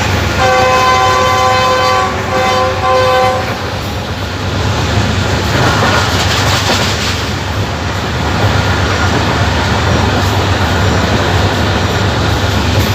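Diesel-electric locomotive horn, a GEU-20 class (GE U20C), sounding two blasts back to back that end about three and a half seconds in. Under it runs the steady low rumble and rail noise of the train running at speed.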